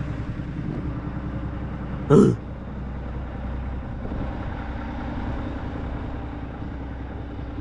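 Cummins ISX diesel of a 2007 Peterbilt 379 idling steadily. About two seconds in, a short, loud sound with falling pitch cuts briefly over the idle.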